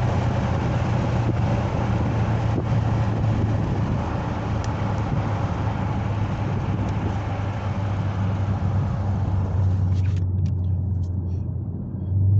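2021 Dodge Challenger Scat Pack's 6.4-litre HEMI V8 running at a steady low drone while the car is driven, with road and tyre noise over it. The road noise drops away about ten seconds in while the engine keeps running.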